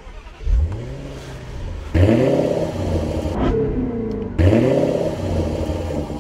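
Car engine revving three times, each rev a quick rise in pitch that settles into a steady run, about every two seconds.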